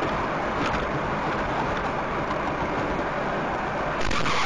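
Steady road and engine noise of a moving car. Near the end it changes abruptly to a louder, brighter road noise.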